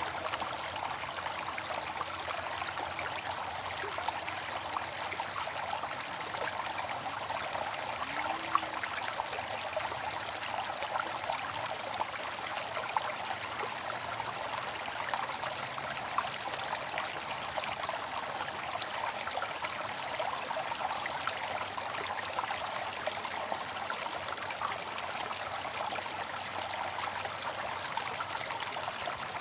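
Water fountain splashing and trickling steadily, with many small drops spattering.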